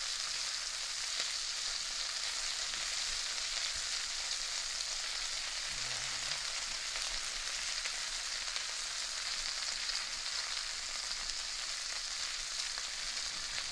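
Corn-starch-coated prawns sizzling as they shallow-fry in hot oil in a wok, a steady hiss that does not let up.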